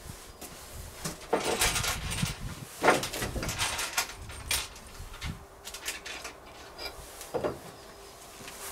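Irregular knocks, clatters and scrapes of objects being handled, busiest in the first half.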